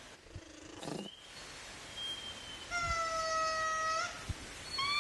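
An animal giving long, steady, mewing whistled calls: a thin high note about two seconds in, a longer and fuller one a second later, and another starting near the end.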